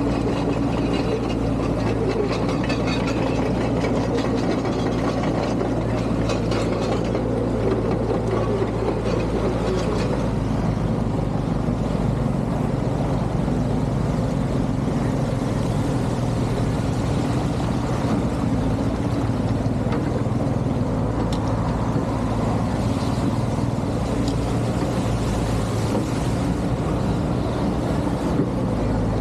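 Excavator's diesel engine running steadily at an even pitch, with a few faint clicks.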